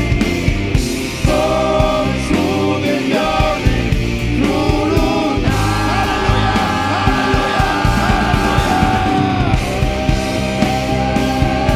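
Live worship band playing loud rock-style music, with singing and a long held melodic line in the middle.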